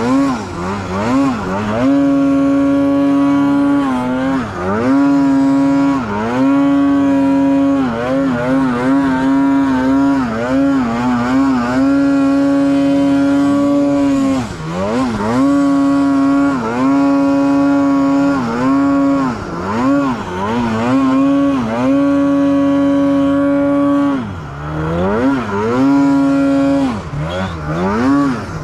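Snowmobile engine running hard, holding a high steady rev for a second or two at a time. It repeatedly falls off and climbs back up as the throttle is let off and reapplied, with longer drops about halfway through and near the end.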